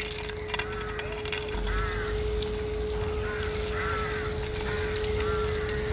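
Henry HVR200-22 vacuum cleaner running with a steady whine, while birds nearby give short calls about once a second, with a few faint clicks of debris.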